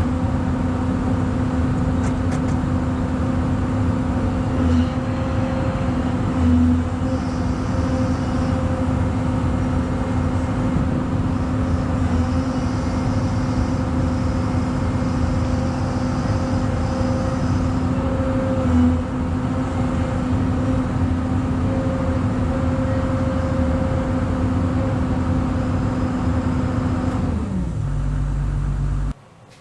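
Diesel engine of heavy equipment, most likely the excavator, running steadily at high revs while it presses a wear strip into a bend, with a few brief surges under load. Near the end the engine speed drops, then the sound cuts off suddenly.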